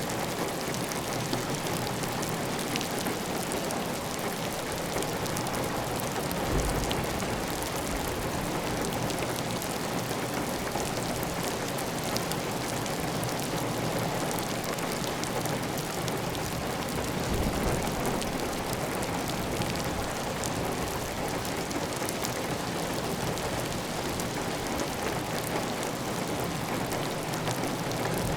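Steady heavy rain pattering on a clay tile roof, with water running off the roof edge in an even stream. Single drop ticks show through the constant hiss, and a low rumble swells briefly twice.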